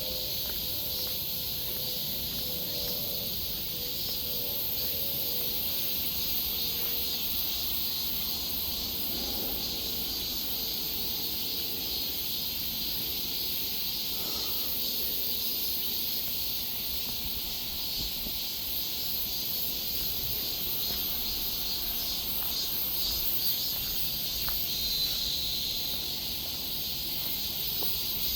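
Steady, high-pitched chorus of insects shrilling without a break, in a forest.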